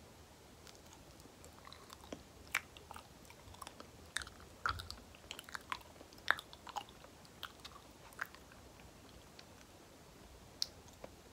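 Close-miked chewing of soft banana, with wet, sticky mouth clicks and smacks, densest in the middle and thinning out towards the end.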